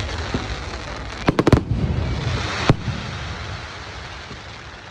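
Fireworks going off: a quick run of sharp bangs a little over a second in, one more bang about a second later, over a crackling hiss that fades away.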